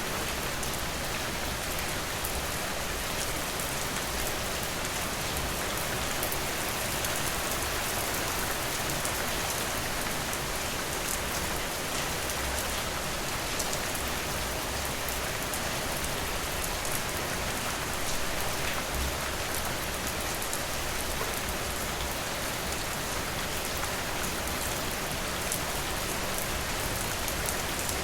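Steady rainfall, a dense even hiss of many fine drop ticks with no thunder.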